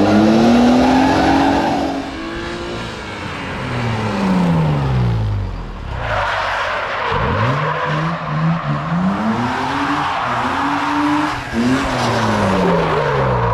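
Racing kart's two-stroke engine on track, its pitch climbing and falling again and again as it accelerates out of corners and brakes into them. About halfway through the revs drop low, then climb back in short steps.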